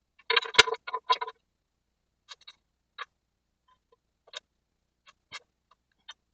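Metal hand tools clicking and clinking: a quick flurry of sharp clicks lasting about a second, then single clicks every half second or so.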